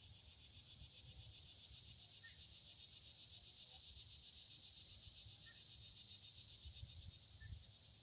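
Faint steady chorus of insects, a fast pulsing high buzz, with a few faint short chirps over it.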